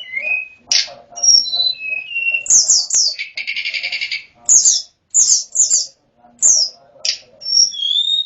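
Tledekan gunung singing a varied run of phrases: sliding whistles, quick high down-slurred notes, and a dense buzzy rattle about three seconds in, with brief pauses between phrases.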